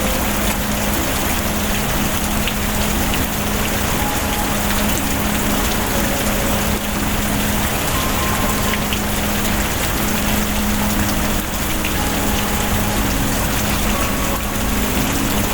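Steady heavy rain, a dense even hiss, with faint held tones underneath.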